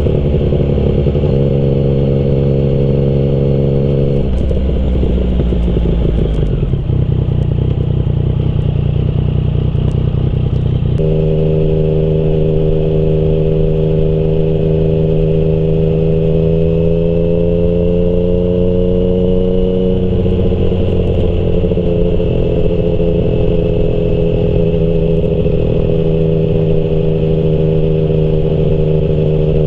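Yamaha MT-09's inline-three engine with a Termignoni exhaust, running under way. The engine note changes in sudden steps several times in the first ten seconds or so, then holds fairly steady with a slow dip and rise in pitch.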